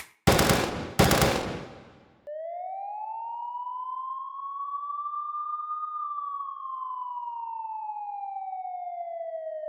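Two short noisy crash-like hits, then a siren sweep: one tone that rises slowly for about four seconds and falls slowly for about four more.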